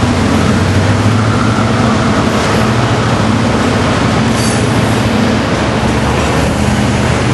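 Diesel-hauled passenger train running by: a steady low locomotive engine drone over the rumble of the wheels and cars, with a brief high wheel squeal about four and a half seconds in.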